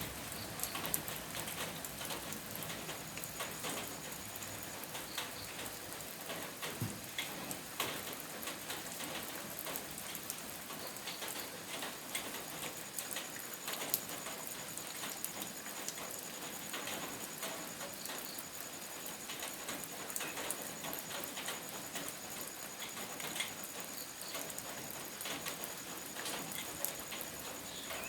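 Steady rainfall, a continuous hiss dotted with the ticks of individual drops hitting a surface.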